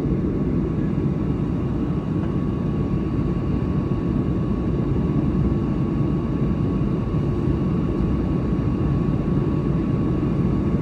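Steady in-flight cabin noise of a Boeing 737-900 descending: a constant low rumble of engines and rushing airflow, with a faint steady high whine that comes in about half a second in.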